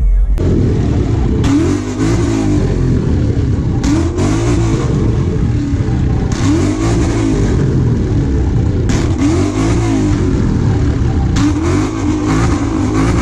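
A car engine revved up and let back down over and over, about every two and a half seconds, running loudly between revs.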